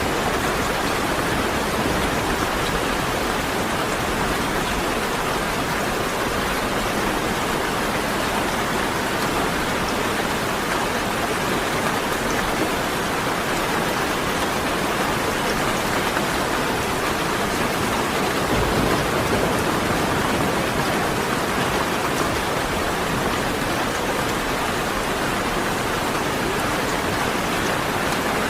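Steady rain falling, an even unbroken patter, with a brief low rumble about two-thirds of the way through.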